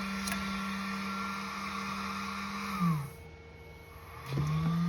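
A small fan motor in the FlashForge Adventurer 3 3D printer hums steadily after the finished print. About three seconds in it winds down and stops, then spins back up to the same steady pitch about a second later.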